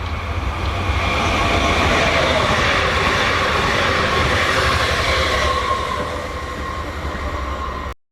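A train passing on the line, a broad rushing rumble of wheels on rails that swells and then eases, with a thin whine running through it. It cuts off suddenly near the end.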